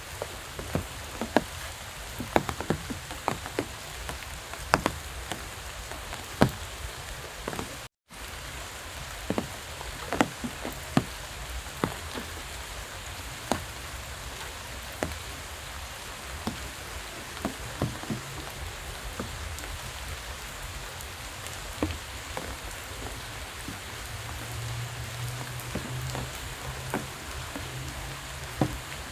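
Steady rain falling, with many separate raindrops tapping sharply close by, more often in the first half. The sound cuts out for a moment about eight seconds in, and a low hum joins near the end.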